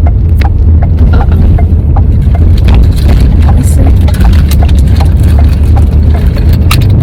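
Loud, steady low rumble of a car's cabin while driving, with scattered small clicks and knocks over it.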